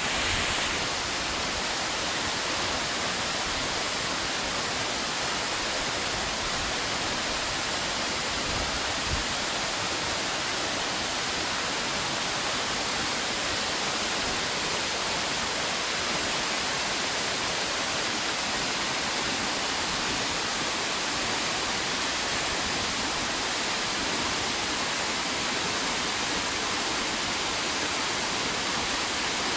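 Steady, even rushing of a waterfall, its noise strongest in the upper frequencies and unchanging throughout.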